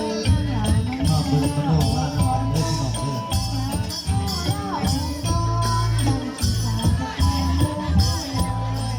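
Southern Thai Nora (Manora) ensemble music: a steady pulse of low drum beats with frequent bright, jingling strikes of small percussion and a wavering melody line above.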